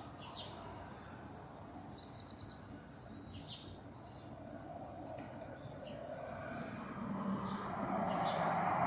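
Short, high chirps repeating two or three times a second. A low, steady rumble swells in from about six seconds in.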